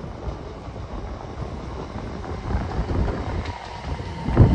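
c2c electric multiple-unit train arriving along the platform below, its rumble growing over the last couple of seconds. A thin whine and a sharp low thump come near the end as the train passes beneath. Wind buffets the microphone throughout.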